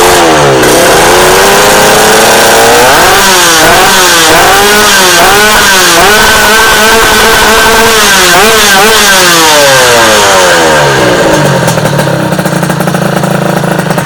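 Modified Honda LS125 two-stroke single, bored to 129cc, revved loud through its exhaust. The pitch climbs, then swings up and down in a run of quick throttle blips, then falls back to a steady idle about eleven seconds in.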